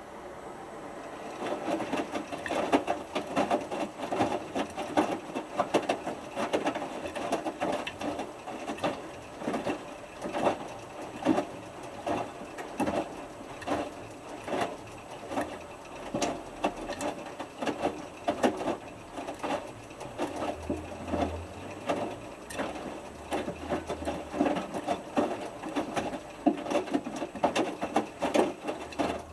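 Hotpoint Futura HF8B593 front-loading washing machine's drum starting to turn about a second in, then tumbling a small load of wet t-shirts in the main wash. The water sloshes and swishes in waves roughly once a second, during the heat-maintenance stage of a 60° whites cycle.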